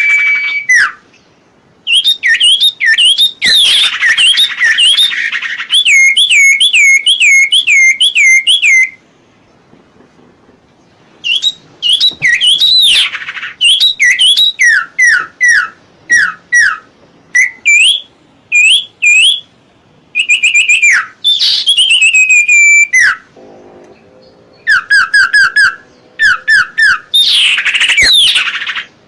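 Common iora (cipoh) singing: phrases of quick, loud whistled notes, each slurring downward, repeated in runs with short pauses between them.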